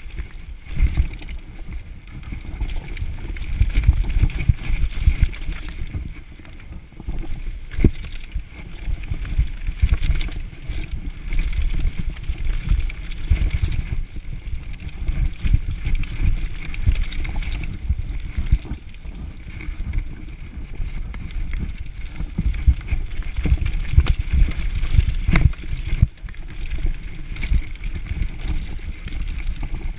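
Downhill mountain bike riding a dirt trail: tyres rumbling over the ground with frequent rattles and knocks from bumps, and wind noise on the microphone.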